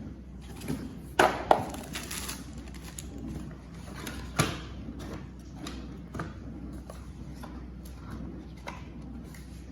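Cardboard box and packaging being handled and opened: a run of knocks, clicks and scuffs, the loudest a close pair about a second in and another a little past four seconds.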